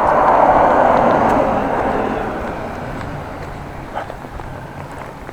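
A road vehicle driving past close by: a rushing noise that is loudest about a second in and fades away over the next few seconds.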